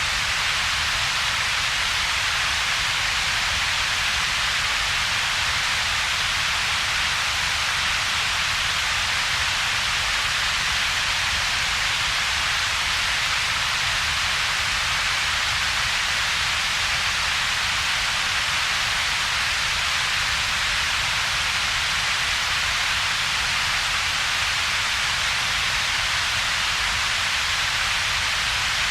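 Synthetic double-peaked noise: a steady, unchanging hiss whose power piles up in two bands, a bright hiss in the upper middle range over a weaker low rumble, with a hollow gap between them.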